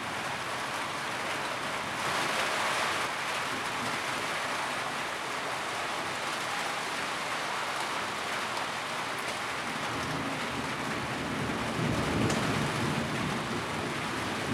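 Steady heavy rain drumming on a tin roof, briefly heavier about two seconds in. A low rumble swells near the end.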